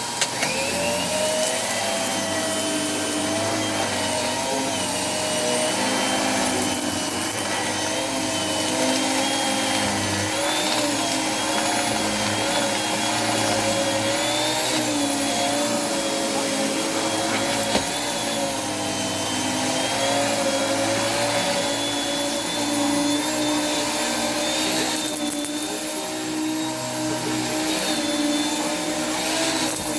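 Motor of a 1989 Hoover Dimension 1000 canister vacuum, converted to a backpack vacuum, spinning up about a second in and then running steadily. Its whine wavers slowly up and down in pitch as the load on it changes.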